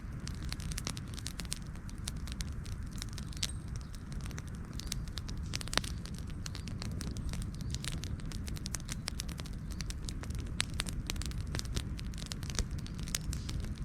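Wood campfire burning: many irregular crackles and pops over a steady low rumble, with one sharper pop about six seconds in.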